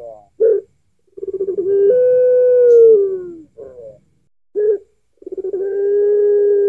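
Puter pelung dove cooing: two long, low coos that each open with a rapid rolling stutter and then hold a steady note, the first sliding down at its end, with short coos between.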